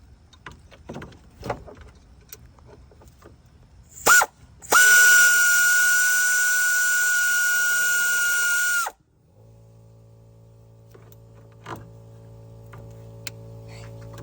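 Power tool motor loosening a bolt on the engine hoist bracket: a short blip, then a steady high whine for about four seconds that cuts off suddenly. Light clicks and knocks of tools on metal come before it, and a low steady hum follows.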